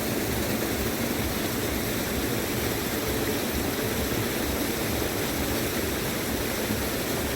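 Steady rushing water, an even unbroken roar of flowing water with no pauses.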